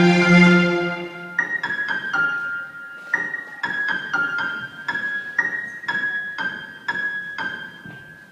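Music: a sustained chord for about the first second, then a piano playing slow single high notes, about two a second, fading away toward the end.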